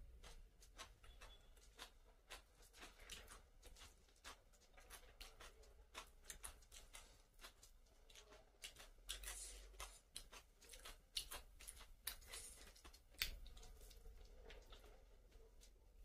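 Faint, close eating sounds: chewing with many small irregular mouth clicks and smacks, and fingers working rice and chicken on a plate.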